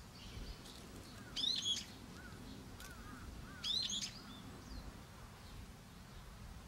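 Birds calling: two loud, shrill calls about two seconds apart, each a quick run of sharp rising-and-falling notes, with softer chirps between them over a faint low rumble.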